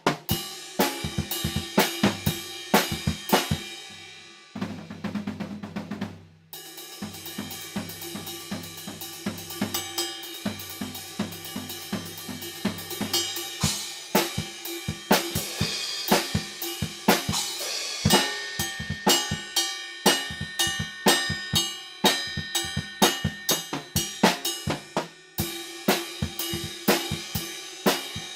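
Acoustic drum kit played freely: snare, bass drum, hi-hat and cymbals in a loose, busy groove, heard through a stereo overhead pair about two metres away. A denser roll about five seconds in ends in a brief pause, then the playing picks up again.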